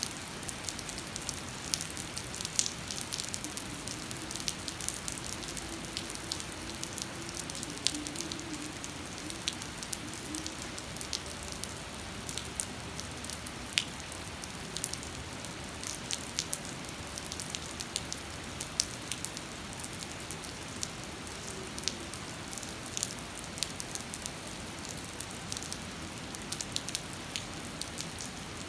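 Heavy rain pouring onto flooded pavement: a steady hiss with frequent sharp ticks of nearby drops hitting.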